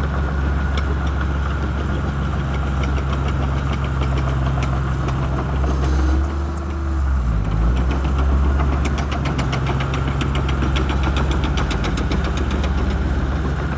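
Shantui crawler bulldozer's diesel engine running steadily under load, its pitch sagging and dipping briefly about halfway through before picking back up. In the second half a fast, even clatter joins it.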